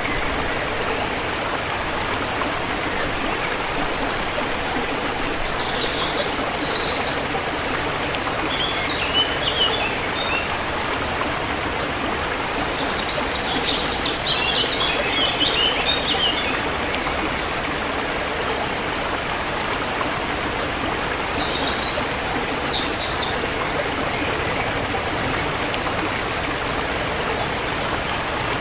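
A forest stream flowing steadily, with songbirds chirping in short bursts several times over it.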